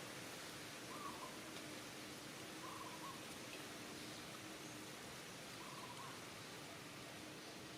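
Faint, steady outdoor hiss with short, soft hooting calls from a distant animal, heard three times a second or two apart.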